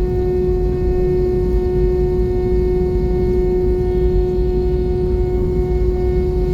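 Airbus A320 cabin noise: a steady engine drone with a constant whine held at one pitch over a deep rumble, heard from inside the passenger cabin.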